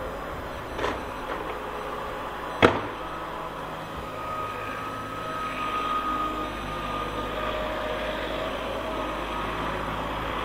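Heavy vehicle engine running steadily while working, with a sharp metallic knock about two and a half seconds in and a lighter one just before the first second.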